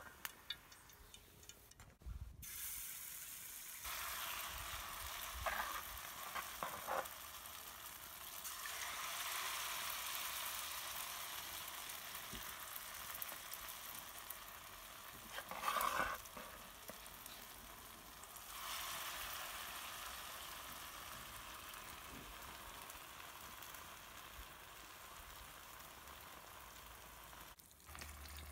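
Wheat-batter fritters frying in hot oil in a small pan: a steady sizzle that starts about two seconds in and swells as fresh spoonfuls of batter go into the oil. A metal spoon taps and scrapes against the pan a few times.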